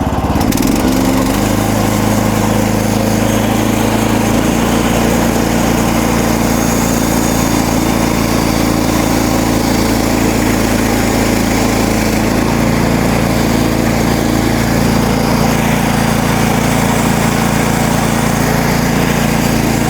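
Gasoline engine of a MechMaxx manual bandsaw sawmill running, its pitch climbing in the first second or so as it is throttled up, then holding a steady high speed with the band blade turning.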